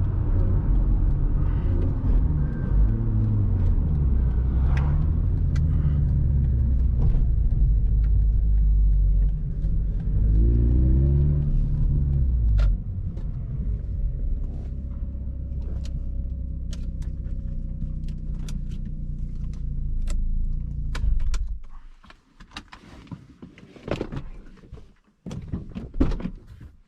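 Mazda RX-8's Renesis two-rotor Wankel engine through a Re Amemiya aftermarket exhaust, its pitch rising and falling under throttle for the first twelve seconds or so before settling to a steadier, quieter note. About 22 seconds in the engine sound cuts off, and a scatter of sharp clicks and knocks follows.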